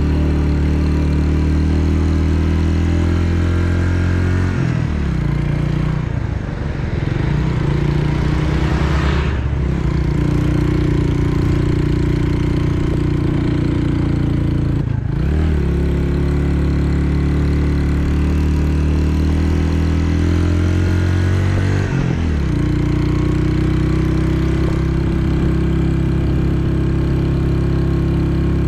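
Restored SYM Wolf 125 motorcycle's single-cylinder engine running at a steady load, its note climbing slowly and then dropping sharply four times, about five, nine, fifteen and twenty-two seconds in.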